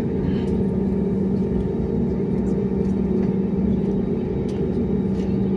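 Airbus A321neo cabin noise: the engines and airflow make a steady rumble with an even low drone, unchanging in level and pitch.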